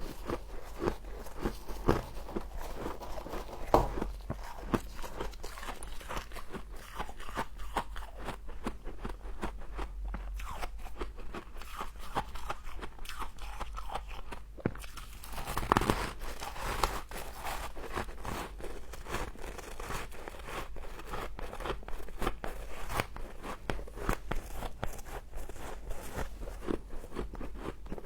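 A person biting and chewing humidifier frost close to the microphone: dense, rapid crunching of the packed ice crystals, with a few louder crunches.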